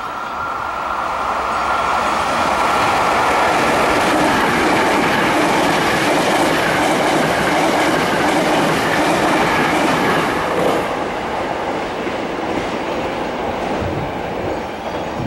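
Hankyu 9300 series electric train passing through a station platform: its running noise and wheel clatter on the rails build over the first two seconds, stay loud, and fade after about eleven seconds as the last cars go by.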